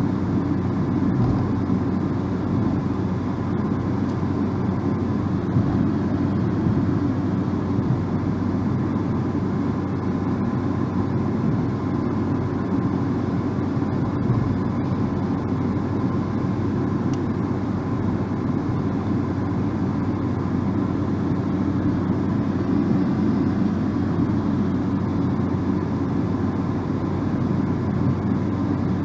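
Steady low rumble of a car driving at road speed: tyre and engine noise that stays even throughout, with a faint constant hum.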